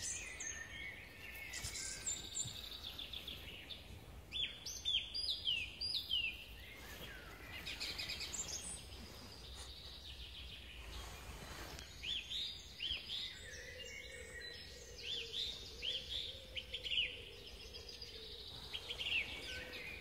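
Small songbirds singing: several bursts of quick, high, downward-sliding notes every few seconds, over faint outdoor background noise.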